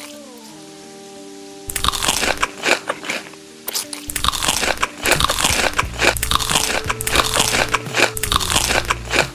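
Someone biting and chewing crisp food close to the microphone, a dense run of loud crunches starting about two seconds in, over background music with sustained notes.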